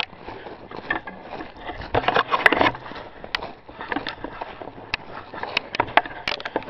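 Crunching and rustling of dry brush underfoot, with many scattered sharp snaps and clicks, loudest about two to three seconds in.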